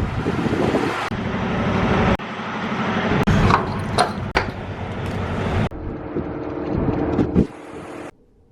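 Semi truck engine and road noise in several short clips cut together, changing abruptly every second or few seconds, with a few sharp clicks in the middle.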